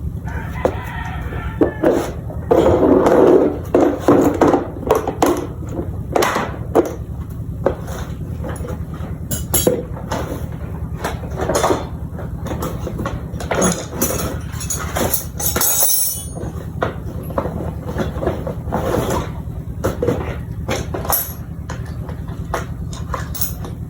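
Irregular clinks, knocks and clatter of metal tools and parts being handled during motorcycle disassembly, over a steady low hum.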